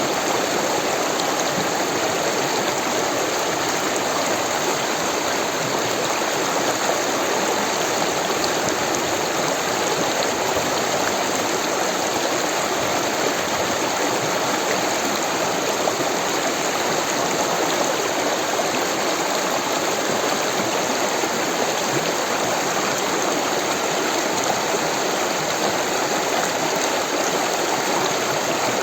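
Rushing water of a stream or small waterfall, a steady full rush with no breaks or changes.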